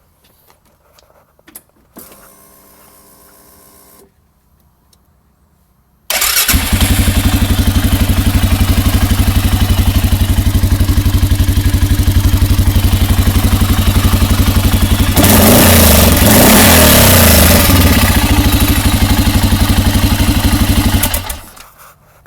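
Arctic Cat Mud Pro 700 ATV's single-cylinder engine starting up after a faint hum, then idling loudly with a fast, even pulse through its exhaust. It is revved several times about two-thirds of the way in, drops back to idle, and is shut off near the end.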